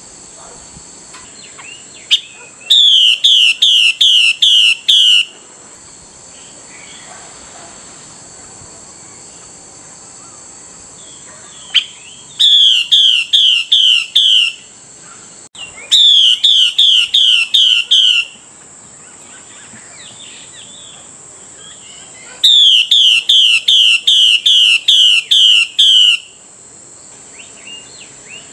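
Female Chinese hwamei (melodious laughing thrush) giving its rapid repeated call, about three loud identical notes a second, in four bouts of two to four seconds each. This is the female's call to a male, used to rouse male hwameis to sing. A steady high-pitched hiss runs underneath.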